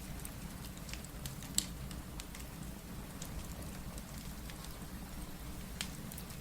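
Steady rain with the occasional sharp crackle and pop of a wood fire, the loudest pop about one and a half seconds in.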